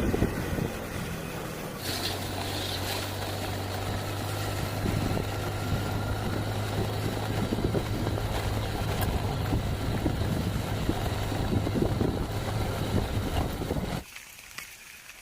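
A steady low motor-like hum over a dense rushing noise, cutting off suddenly near the end.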